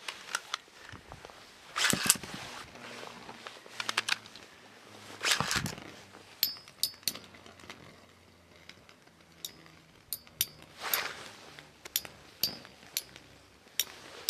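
Scattered sharp plastic-and-metal clicks and clinks from Beyblade spinning tops and their gear, with a few brief rustling swishes in between.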